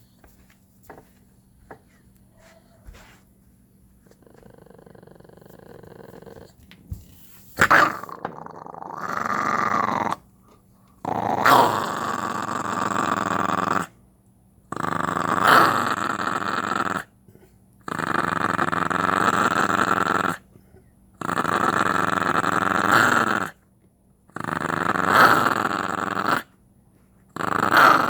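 Chihuahua growling in a run of long, sustained growls, each a few seconds long and sharper at its start, with short silent gaps between them. A quieter growl builds up first. The growl is the dog's 'motorcycle engine'.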